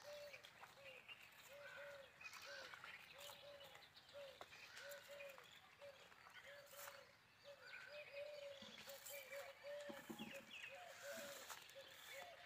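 Faint birds calling: a steady run of short, low, repeated notes, about two a second, with scattered higher chirps over them.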